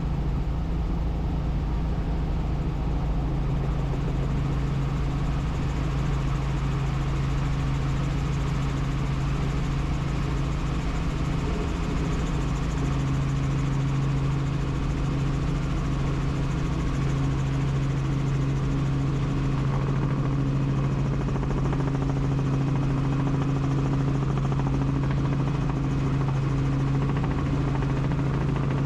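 Helicopter's rotor and turbine engine running with a steady, unchanging drone, heard from on board.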